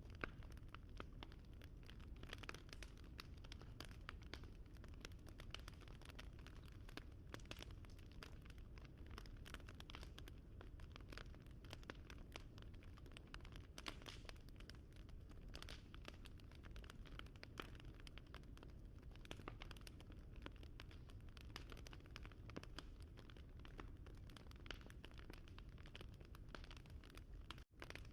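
Wood fire crackling: frequent small, irregular pops and snaps over a low, steady rumble of burning, with a brief break in the sound near the end.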